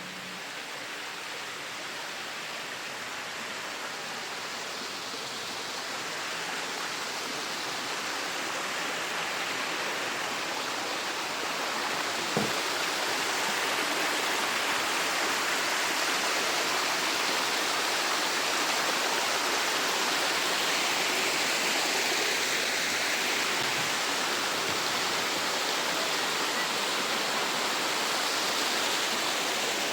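Steady rushing of flowing water, a pitchless hiss that grows louder over the first dozen seconds and then holds level. A single brief click falls about halfway through.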